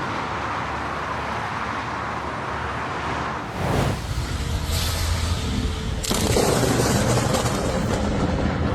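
Steady vehicle and road noise, changing about three and a half seconds in to a louder, deeper rumble and shifting again about six seconds in.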